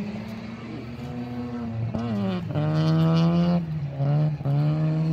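Drift car engine revving hard through a slide: the revs swing up and down, then are held high and steady, with two short throttle lifts about halfway through before the engine is held at high revs again.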